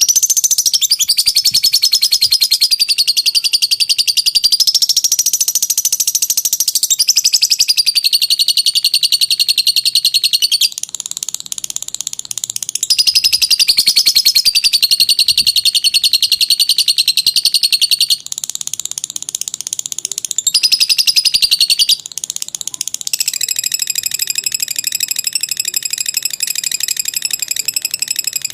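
Lovebird's long 'ngekek' song: a rapid, high-pitched chattering trill held for many seconds at a stretch, its pitch wavering, with a few short breaks.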